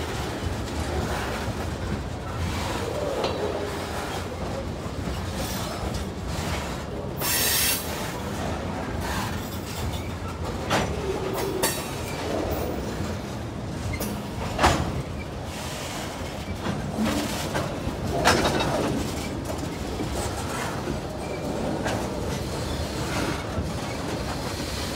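Freight cars, covered hoppers and then tank cars, rolling past close by: a steady rumble of steel wheels on the rail with scattered sharp knocks and clanks. A short burst of high-pitched noise comes about seven seconds in.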